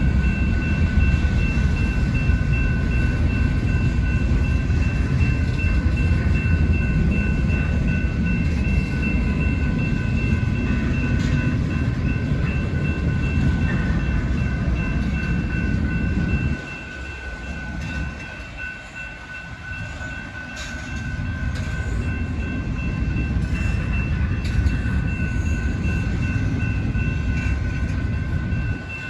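BNSF intermodal freight train rolling past: a steady heavy rumble of wheels on rail, with two thin steady high tones running through it. About halfway through the rumble drops off suddenly, then builds back up a few seconds later.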